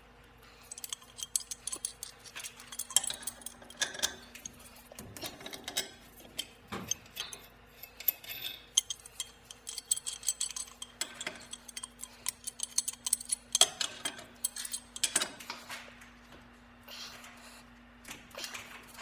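Irregular metallic clicks, clinks and taps of hand tools and metal parts being handled during work on a float-and-thermostatic steam trap, over a steady low hum.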